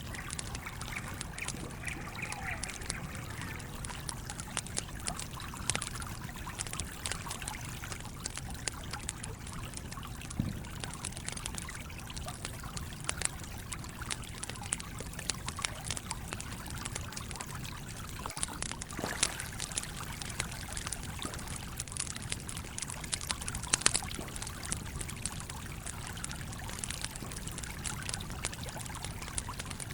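A stream running steadily, with a wood campfire crackling over it in frequent small pops and a few louder snaps, the loudest near the end.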